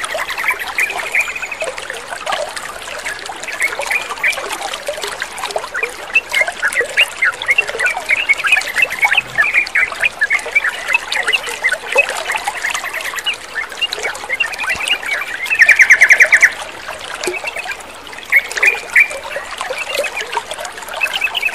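Yellow-vented bulbuls chattering with many short call notes over a steady trickle of running water. About fifteen seconds in comes a loud, rapid trill.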